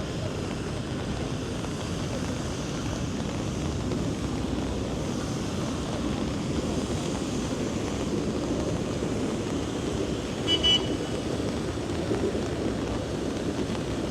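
Steady city street and traffic noise, with a short, high-pitched double beep of a vehicle horn about ten and a half seconds in.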